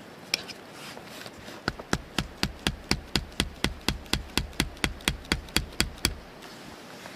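A run of about twenty sharp, even knocks, about four a second, starting near two seconds in and stopping about six seconds in.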